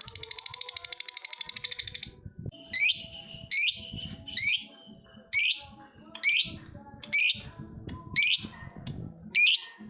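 Lovebird's long, rapid chattering trill (ngekek) cuts off about two seconds in. It is followed by about eight sharp, high single calls, each a little under a second apart.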